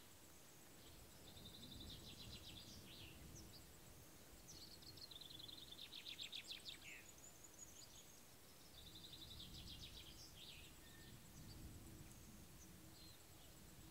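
A small songbird singing three quick trilled phrases, the middle one loudest and ending in a falling sweep, over a faint low outdoor rumble.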